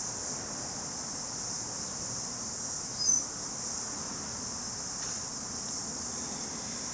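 Cicadas droning steadily at a high pitch, with a single short bird chirp about three seconds in.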